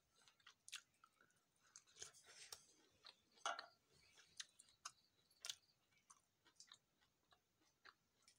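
Faint, close-up chewing of cooked bee larvae: irregular wet mouth smacks and small clicks, with louder ones about three and a half and five and a half seconds in.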